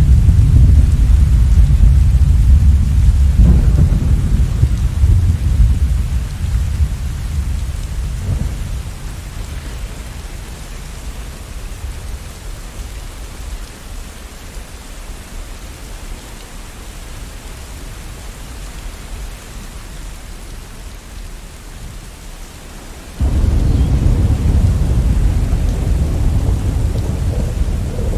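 Steady rain with rolling thunder. A loud low rumble dies away over the first several seconds, leaving rain alone, then another peal of thunder starts suddenly and rumbles on near the end.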